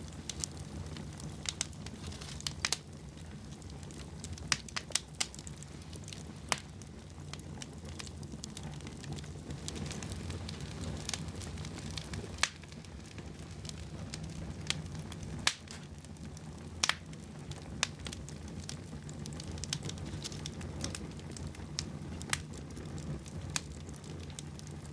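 Fire crackling in a fireplace: irregular sharp pops and snaps, a few of them loud, over a steady low rumble of the flames.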